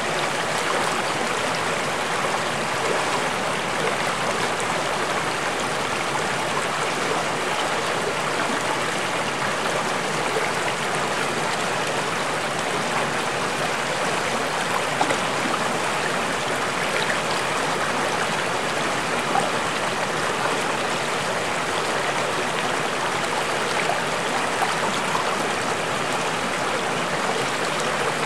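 Running water of a stream flowing and gurgling over stones, a steady, even rush.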